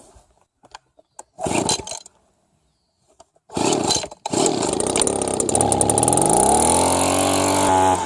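Two-stroke leaf blower engine pull-started after a carburetor cleaning: a brief burst about a second and a half in, then it catches about three and a half seconds in and runs, its pitch climbing steadily as it revs up. It runs on a carburetor whose high and low jets still need adjusting.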